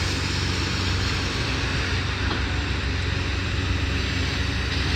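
Heavy demolition machine's engine running steadily, under a constant rush of wind on the microphone.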